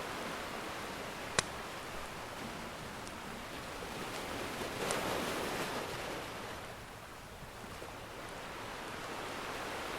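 Ocean surf washing in steadily, with one wave swelling up about halfway through and then ebbing away. A crackling fire adds a sharp pop about a second and a half in and a few faint ticks.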